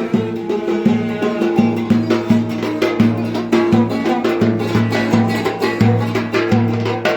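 Instrumental Turkish folk dance tune (oyun havası) of the Ereğli–Alaplı region, with a quick, steady percussion beat over a repeating low melodic line.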